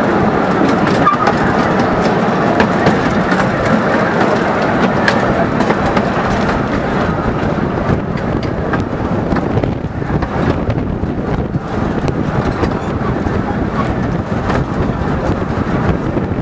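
A 15-inch gauge miniature steam train running: a steady rumble of carriage wheels on the rails with scattered sharp clicks, heard riding in an open carriage. It grows a little quieter in the second half.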